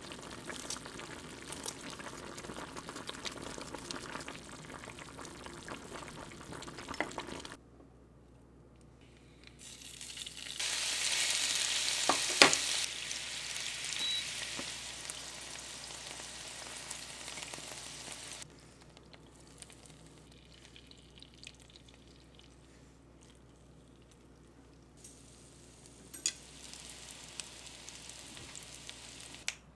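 Cooking sounds: a pot of soup bubbling while kitchen scissors snip green chili into it. Then, about ten seconds in, a loud hiss starts as beef-brisket vegetable rolls sizzle in oil in a nonstick frying pan, with a sharp crackle at its peak, and it settles into a steady fry. Near the end, perilla-leaf tuna pancakes fry quietly with a few pops.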